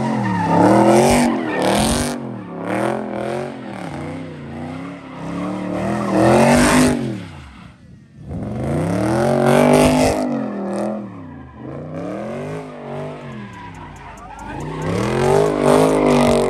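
A widebody Dodge Charger's V8 revving up and down over and over while it spins donuts, its rear tyres spinning and squealing on the pavement. The engine pitch climbs and falls roughly once a second, with a short drop near the middle.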